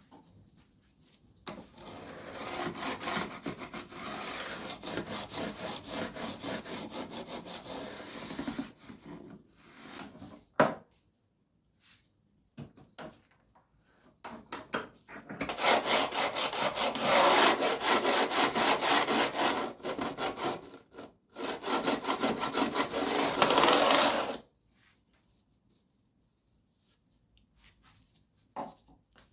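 Wood being worked by hand with an abrasive tool, in rapid back-and-forth rubbing strokes. The strokes come in two runs of several seconds each, with a single sharp knock between them.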